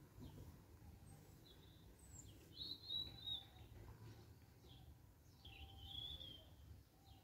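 Faint birdsong: a short, high chirping phrase about three seconds in and another near six seconds, over a low steady outdoor background hum.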